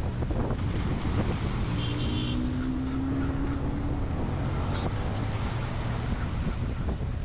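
Wind buffeting the microphone over open sea, a steady low rumbling rush, with a faint brief tone about two seconds in.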